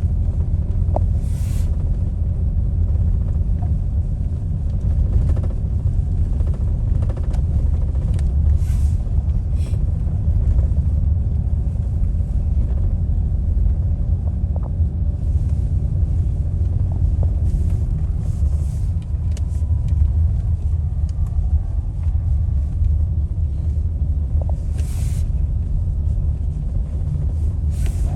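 Steady low rumble of a car driving on the road, with a few brief hisses.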